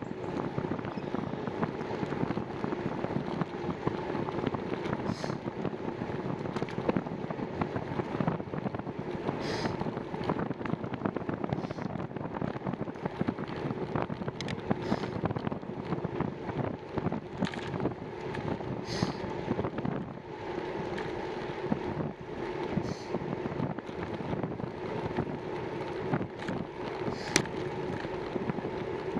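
Bicycle riding along a trail: steady tyre rumble with frequent small rattles and knocks as it rolls over bumps, and wind on the microphone.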